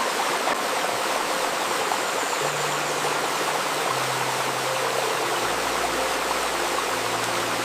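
Steady babbling of a shallow river over stones. Soft, low sustained tones run underneath and shift to a new pitch every second or two.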